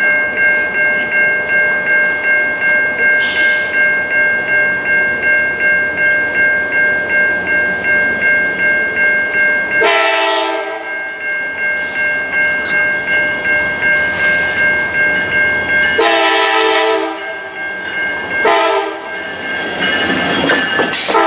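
Norfolk Southern locomotive air horn sounding a chord in a long, long, short, long pattern, the grade-crossing warning signal, with the last blast still going at the end. For the first part a steady ringing tone pulses about two and a half times a second.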